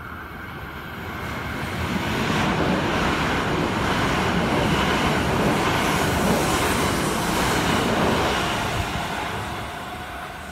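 Akita Shinkansen E6-series Komachi train passing through a station without stopping: a rush of wheel and air noise that swells, holds loud for several seconds as the cars go by, then fades as the train moves away.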